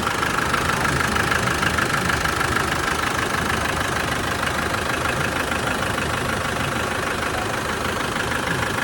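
1997 Land Rover Defender pickup's engine idling steadily, fully warmed up.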